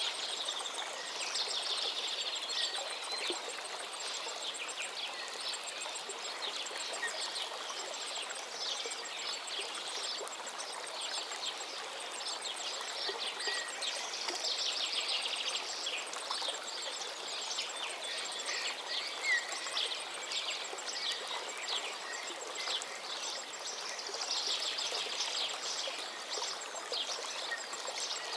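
Birds chirping and twittering in quick short notes, in thicker flurries near the start, around the middle and near the end, over a steady background hiss.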